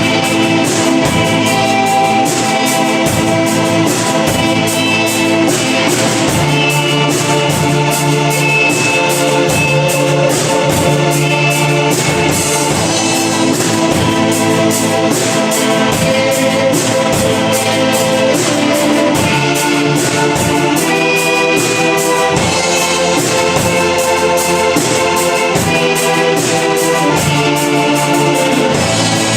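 A band playing a song live, with sustained instrument notes over a steady percussion beat.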